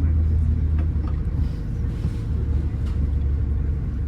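Inside a moving passenger train carriage: a steady low rumble and drone from the running train, with a faint steady hum above it and a few light clicks.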